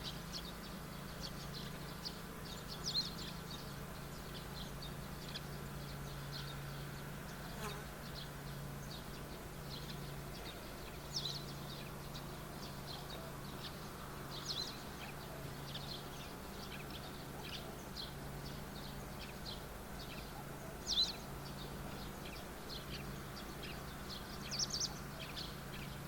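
Small birds chirping: many short, high calls on and off throughout, with a few louder ones standing out. A steady low hum runs underneath.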